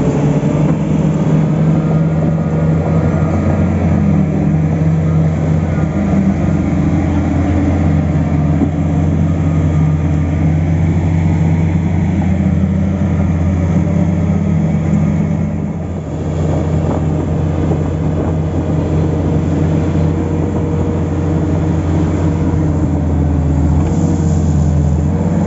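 Diesel engine of heavy earthmoving equipment running steadily at high load, with a brief drop in level about two-thirds of the way through.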